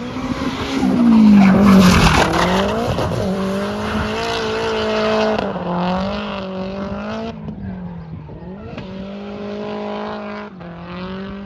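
Nissan Silvia drift car driven hard on track, heard from trackside: the engine revs high with a tyre screech as it slides past, loudest about a second or two in, then the engine note holds and dips a few times as the car carries on.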